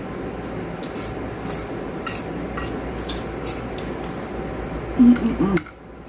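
Fork and cutlery clinking lightly against a plate during eating, a scattering of small clicks over a steady low background hum. About five seconds in comes a short, loud, low voice sound, and the background hum then cuts off suddenly.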